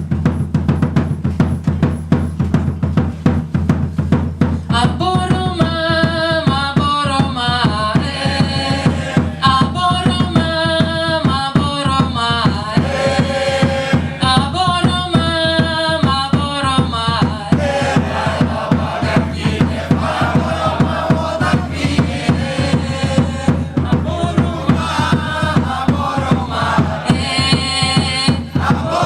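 Band music driven by a drum kit, with a steady bass-drum and snare beat; a melody line comes in about five seconds in.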